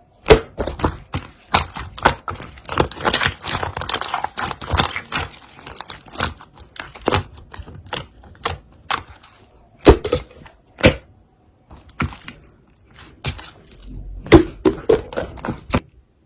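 Marbled pearl slime being squeezed, stretched and poked by hand, giving a run of sharp clicks and wet crackling pops as air pockets burst. The sound stops abruptly near the end.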